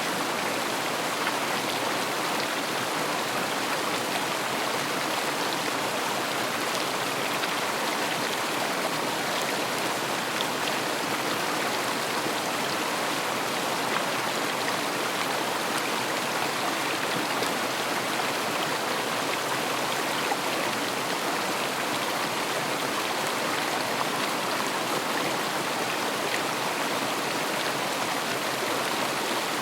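River water rushing and splashing over its bed, a steady even rush of noise.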